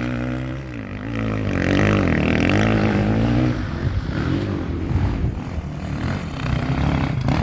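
Enduro motorcycle engine revving, its pitch swinging up and down in the first few seconds, then running rougher under load.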